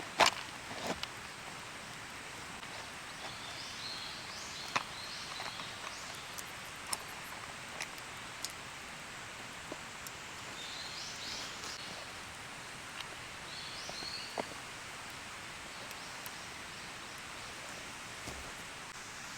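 Woodland ambience: a bird chirps in three short spells, over a steady outdoor background with scattered sharp clicks and snaps, one louder snap right at the start.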